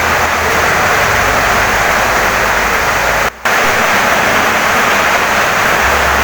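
Heavy rain pouring steadily onto a wooden house, a dense even hiss that drops out for a moment about three seconds in.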